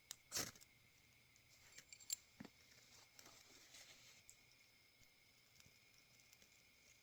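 Faint rustling of a paper napkin being handled and torn for fire tinder, with a few short clicks in the first couple of seconds, then near silence.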